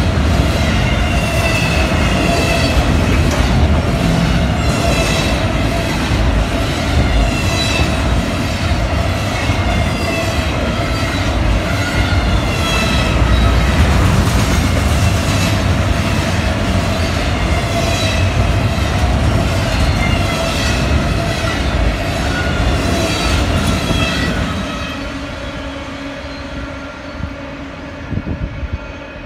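Double-stack intermodal freight cars rolling past at speed: a loud steady rumble of steel wheels on rail, with evenly repeating clicks and thin wavering high-pitched wheel squeal. About 25 seconds in, the last car goes by and the noise drops away and fades.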